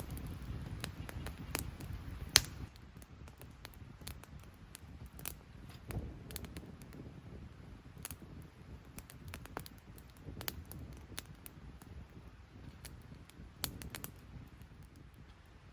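Wood fire crackling in a small firebox stove: irregular sharp pops and snaps over a low rumble, with one loud pop a couple of seconds in.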